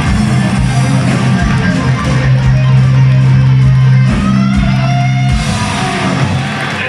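Live heavy metal band playing the closing bars of a song: distorted electric guitars over bass and drums. The bass and drums fall away in the last second or two.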